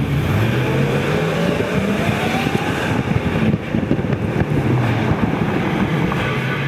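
Supercharged V8 of a Chevrolet Avalanche pulling under load, its engine note rumbling while a whine rises steadily in pitch over the first few seconds, then running on at a steady pitch.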